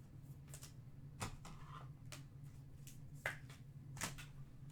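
Trading cards being handled and flipped through, giving a handful of soft flicks and taps spread over a few seconds, over a faint steady low hum.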